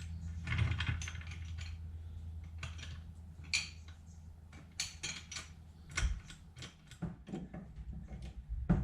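Irregular mechanical clicks and rattles of metal tools or jack work on a car, over a steady low hum that stops about six seconds in.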